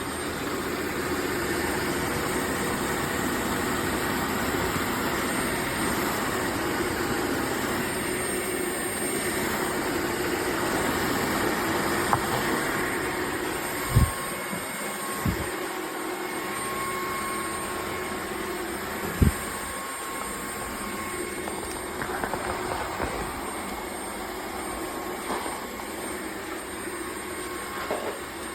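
Dreame H12S wet-dry vacuum mop running, a steady motor hum with a thin high whine. Three short knocks come around the middle.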